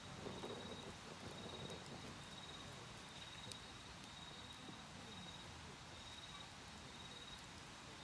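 Crickets trilling in short pulses repeated evenly, a thin high chirp that keeps on steadily, with faint scattered crackles from a burning wood fire.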